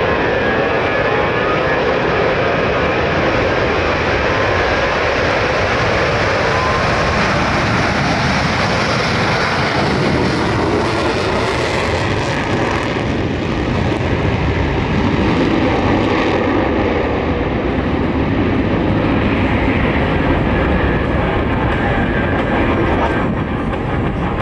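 Four F/A-18 Super Hornet jets of a diamond formation taking off with afterburners lit: loud, steady jet engine noise that carries on without a break.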